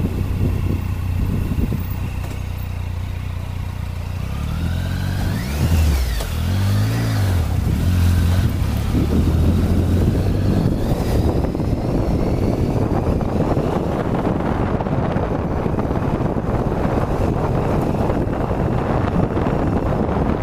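Triumph Tiger 800 XCx's three-cylinder engine running on a dirt track. Its note is steady at first, then rises and falls a few times between about five and eight seconds in under changes of throttle. After that wind rushing over the microphone covers most of it.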